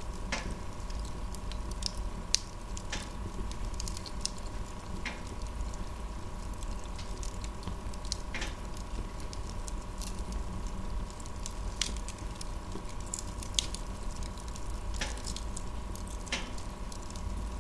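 Wood fire crackling, with irregular sharp pops and snaps over a steady low rumble and a faint steady tone.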